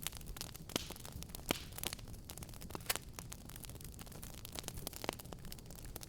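Fireplace fire crackling: irregular sharp pops and snaps over a low steady rumble, the loudest pops about a second and a half and three seconds in.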